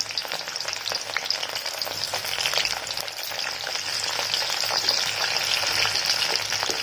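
Parboiled drumstick (moringa) pods deep-frying in hot mustard oil in a kadai: a steady sizzle with fine crackling, the water left in the boiled pods boiling off in the oil. The frying goes on until this sizzle dies down.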